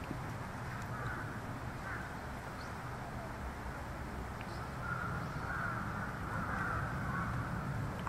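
Harsh cawing bird calls, one or two early on and then a repeated series from about halfway through, over a steady low background hiss.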